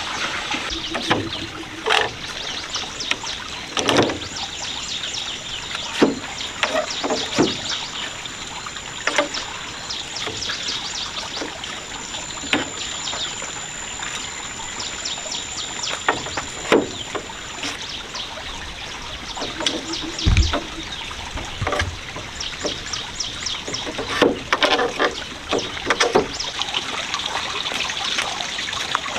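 Water splashing and trickling, with irregular sharper splashes throughout. A thin, steady high-pitched tone runs underneath for a while, from about four seconds in until a little past the middle.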